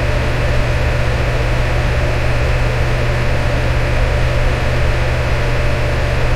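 Electric fan running steadily: an even whoosh of air with a low motor hum underneath.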